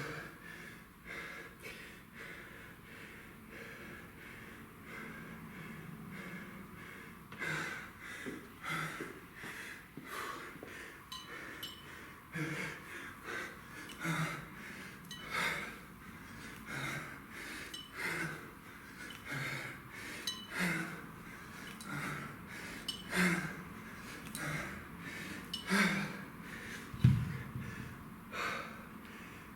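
A man breathing hard and fast under exertion during a kettlebell set, with short forceful exhales about once a second. Near the end there is one louder, low thump.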